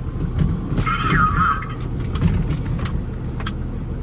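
Steady low rumble of a box truck running. About a second in there is a brief voice-like sound, and a few sharp clicks come later.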